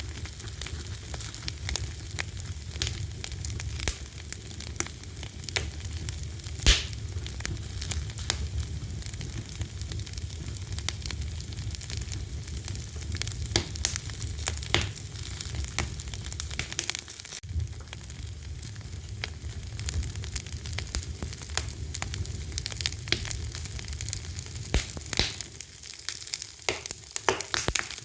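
Fire crackling: irregular sharp pops and snaps over a steady low rumble of flames, with one louder pop about a quarter of the way in.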